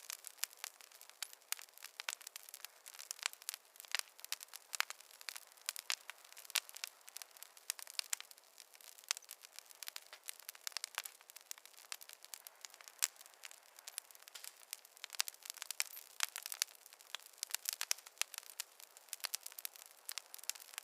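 Fireplace fire crackling: a dense, irregular run of sharp pops and snaps, several a second, over a faint steady hiss, with no low rumble.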